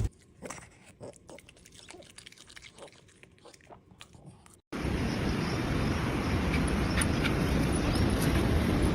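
Soft, irregular chewing clicks, like a pet eating. About halfway through, a steady low rumbling background noise cuts in abruptly.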